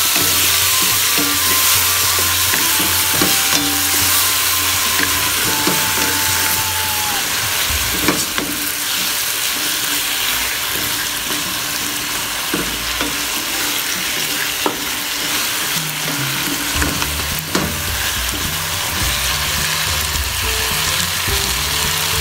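Chicken pieces and mushrooms in dark soy sauce sizzling steadily in a wok as they are stirred with a wooden spatula, with a few knocks of the spatula against the pan.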